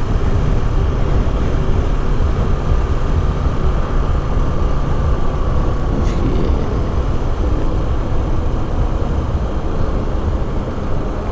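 Honda XRE 190 motorcycle running steadily while being ridden, its engine under a heavy low rumble of wind noise on the microphone.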